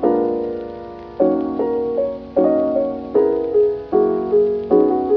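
Background piano music: soft chords struck about every second and left to fade.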